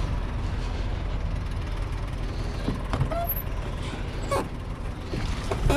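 A vehicle engine idling with a steady low rumble, with a few short clicks and knocks about halfway through.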